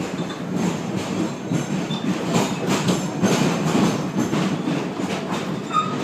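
PATH subway train running, heard from inside the car: a steady rumble with irregular clacks of the wheels over the rails, and a brief high squeal near the end.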